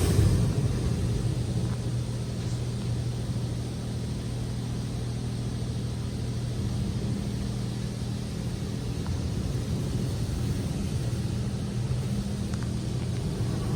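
Steady low mechanical hum in a touchless automatic car wash while the high-pressure spray is paused, with no water hitting the car.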